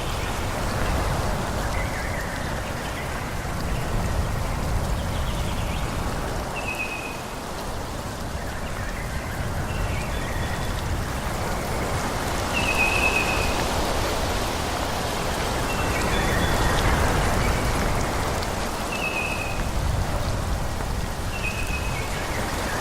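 Wind rushing through forest trees, rising and easing in swells, with a bird giving short falling chirps every few seconds.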